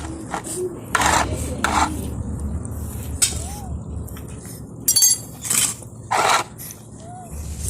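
Several short scraping and clattering noises, with soft pigeon coos near the start.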